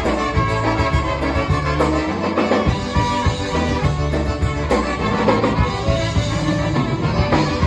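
Polka band playing live, with a steady, bouncing beat.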